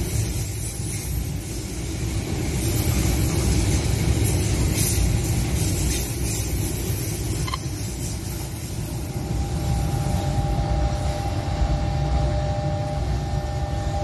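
Container freight train rolling past close by: a steady low rumble of wagon wheels on the rails, with some high metallic squeals in the first half. A steady two-note tone joins in about nine seconds in.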